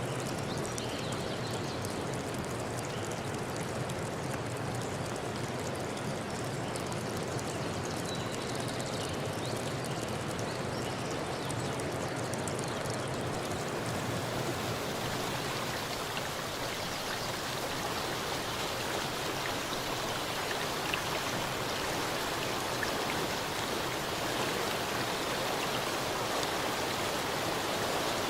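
Steady rush of running water, like a forest stream. About halfway through the low rumble drops away and it turns into a brighter hiss.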